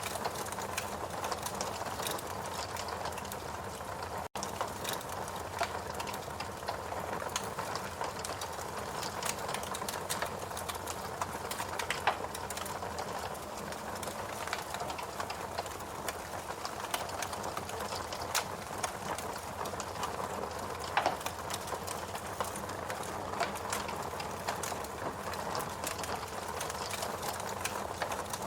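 Fireplace crackling: a steady rush with frequent small snaps and a few louder pops. The sound cuts out for an instant about four seconds in.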